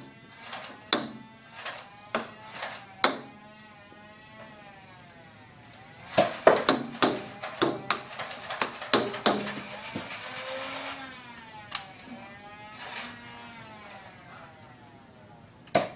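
Motorized flywheel Nerf blaster whirring, its motor pitch sweeping down and back up more than once, amid a run of sharp clicks and knocks from darts firing and hitting, busiest from about six to ten seconds in.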